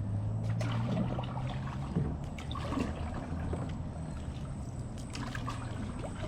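Water trickling and splashing around a paddled canoe, with scattered small knocks and a low steady hum underneath.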